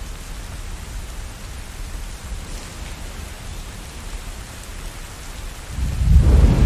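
Steady rain falling, with a loud, deep rumble of thunder swelling up near the end.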